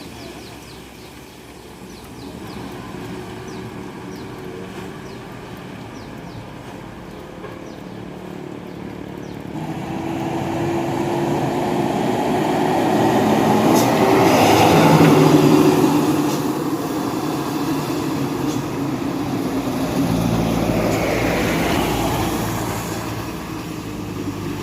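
Heavy diesel dump trucks driving past one after another, engines and tyres growing loud as each one nears. The loudest pass comes about midway, with another close behind it near the end.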